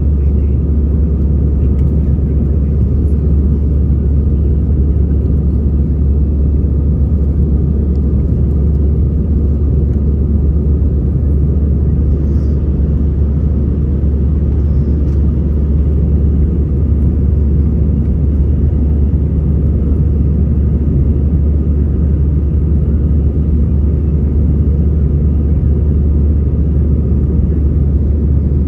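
Steady low rumble of engine and airflow noise heard inside an Airbus A320's passenger cabin, even in level throughout.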